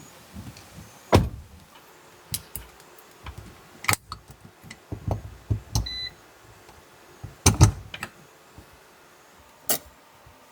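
Several sharp knocks and clicks a few seconds apart, with a short electronic beep about six seconds in.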